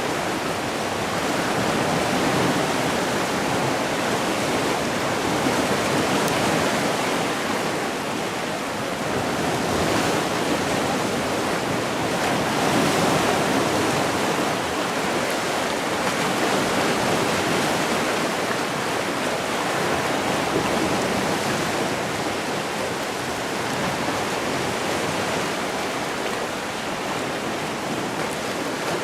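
Sea surf: waves washing in and breaking on the shore in a continuous wash, swelling and easing every few seconds.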